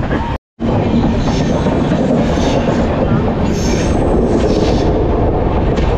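Indian passenger express train running through a station, heard from an open coach door: steady rumble and rattle of wheels on rail, with a few short high wheel squeals as the train takes a curve. The sound drops out briefly near the start.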